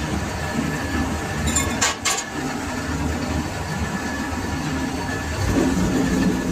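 Lathe machine running with a steady mechanical rumble and hum, with two sharp clicks about two seconds in.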